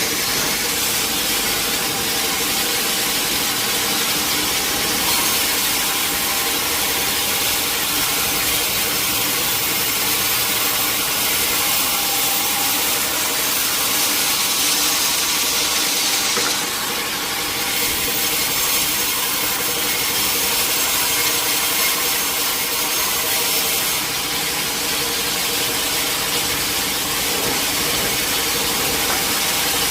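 Sawmill saw cutting through a large teak log: steady machine running with the noise of the blade in the wood, dipping briefly in level a couple of times.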